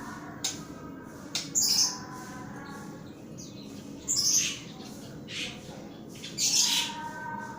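White-rumped shama calling with short chirps and squawks, broken by three short, loud hissing bursts.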